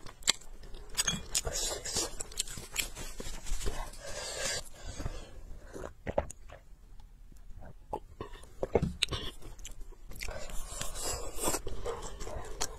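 A person chewing and biting food close to the microphone, with irregular crunches and clicks; it eases off for a moment about six seconds in, then picks up again.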